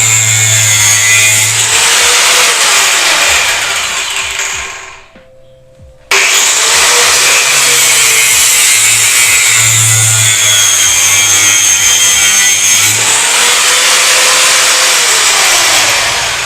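Angle grinder with a cutting disc cutting into the casing of a car TV screen, which has an iron frame inside, with a high whine. It dies away about four to five seconds in, then starts again abruptly about a second later and keeps cutting.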